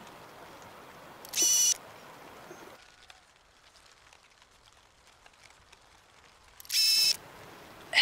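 An unseen forest bird gives two short, harsh calls about five seconds apart, over faint steady background noise.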